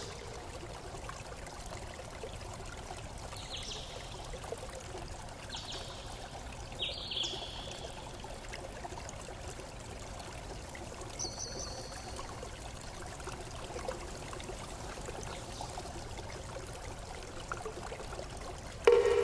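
Flowing water trickling steadily, with a few short high bird chirps. Just before the end, a brief loud pitched note with overtones sounds.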